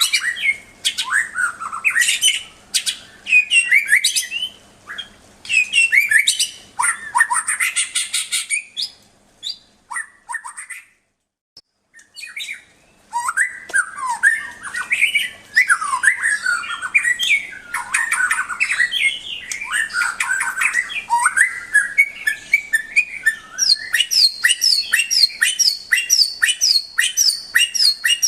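White-rumped shama (murai batu) singing a rich, varied song of rapid whistled phrases mixed with harsher notes. There is a pause of about two seconds near the middle. A fast run of short repeated high notes comes in the last few seconds.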